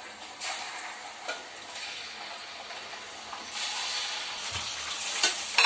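Raw chicken pieces sizzling as they go into hot oil in a steel pot; the sizzle grows louder about three and a half seconds in, with a few sharp clinks near the end.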